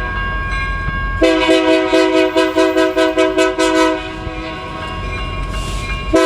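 Diesel locomotive's multi-chime air horn sounding long blasts, one from about a second in lasting nearly three seconds, and another starting just at the end, with the low rumble of the train between blasts.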